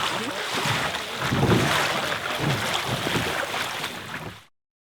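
Wind buffeting the microphone over water sounds, in uneven gusts, cutting off suddenly near the end.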